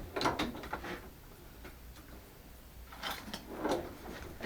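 Light clicks and taps from a metal hole saw being handled and measured, in two short clusters: one just after the start and one about three seconds in.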